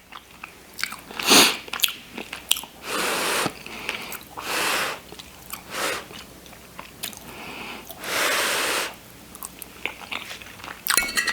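Close-up chewing of a mouthful of shepherd's pie: several separate bouts of mouth and chewing sounds, the longest about three-quarters of the way through.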